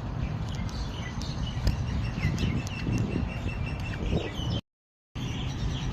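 Small birds chirping in quick, repeated short calls over a low, steady rumble. The sound cuts out for about half a second near the end.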